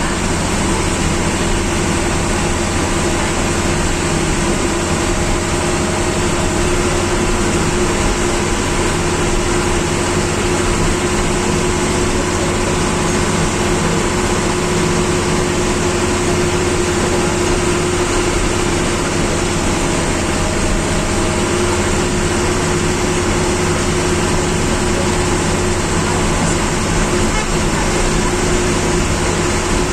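A TNSTC government bus's engine running steadily under road noise, heard from inside the driver's cabin, with a constant low hum throughout.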